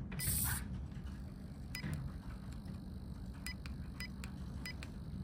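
Microwave oven running: a steady low hum with a few sharp, irregular clicks, after a brief hiss at the very start.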